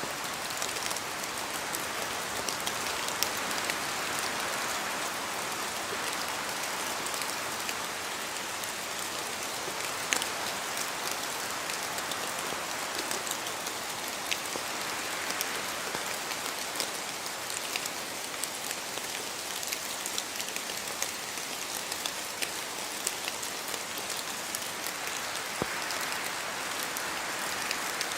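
Steady rain falling in a forest, with many individual drops pattering and ticking on leaves and surfaces and one louder drop about ten seconds in.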